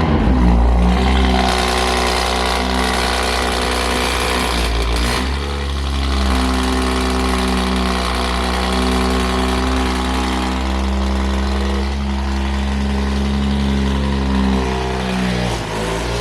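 Performance car engine just after a cold start, running at a raised fast idle. About five seconds in it settles into a lower, steady idle.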